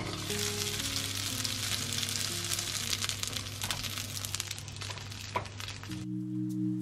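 Dumplings sizzling in oil in a small non-stick frying pan, a dense crackling hiss that cuts off about six seconds in. Soft lo-fi background music plays underneath.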